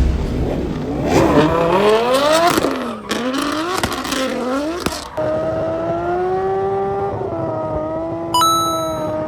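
A high-performance engine revved hard up and down several times, then held at steady high revs for the last four seconds, as in a drift or burnout. A sharp click comes near the end.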